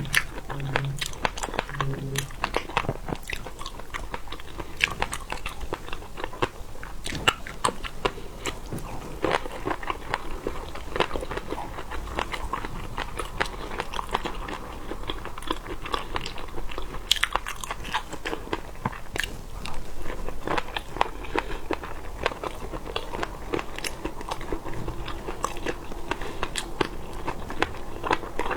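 Close-miked eating: a person biting and chewing seafood, with many sharp, irregular crunches and clicks.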